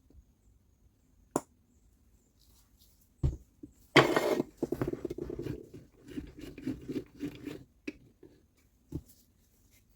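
Hands working on small tool parts at a bench: a sharp click, a knock, then about four seconds of rough scraping and rattling, ending in a couple of light taps.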